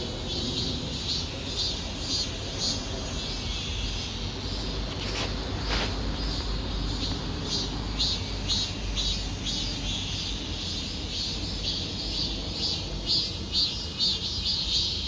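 Insects chirping in steady, evenly repeated pulses in a pine wood after rain, over a low rumble.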